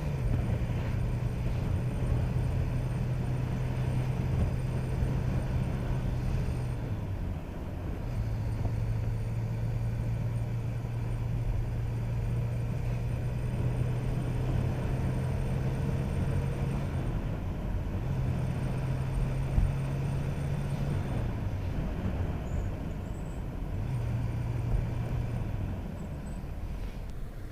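Motorcycle engine running while riding, heard through wind noise; the engine hum drops away briefly several times and comes back as the throttle is eased and reopened.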